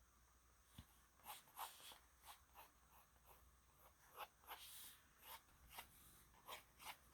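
Faint graphite pencil strokes scratching on sketchbook paper: short, irregular strokes about two a second, beginning about a second in, with one longer stroke a little before the five-second mark.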